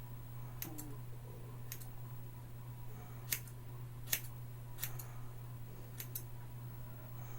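Scissors snipping through hair: about eight crisp, short snips at irregular spacing, with a steady low hum underneath.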